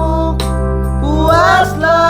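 Singing over an electronic keyboard backing with a steady bass. A held vocal note ends early on and the voice comes back in a little past halfway with a wavering melody.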